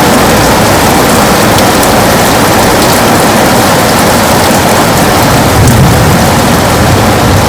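Heavy rain falling steadily against a window, with a low rumble swelling up about two-thirds of the way through.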